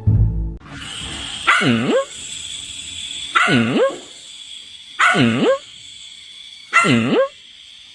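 A dog barking four times, about every one and a half to two seconds; each bark dips in pitch and rises again.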